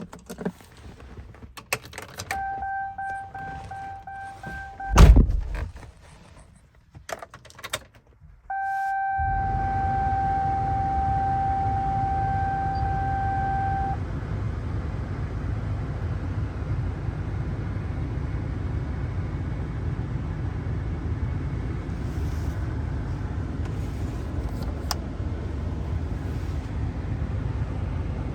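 A cab warning chime sounds, then a door shuts with a heavy thunk about five seconds in, followed by a few clicks. About nine seconds in, the 6.6L Duramax turbo-diesel V8 starts and settles into a steady idle while a chime rings for several more seconds.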